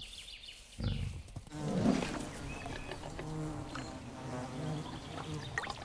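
Honey bees buzzing in flight: a steady hum of several overlapping wingbeat tones, with a briefly louder buzz about two seconds in.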